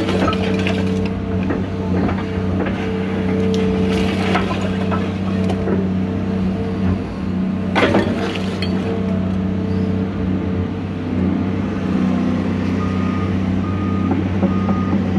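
A John Deere 250G LCR excavator's diesel engine runs steadily under work, with sudden cracking and crashing bursts, the loudest about halfway through. Near the end a short high beep repeats about once a second.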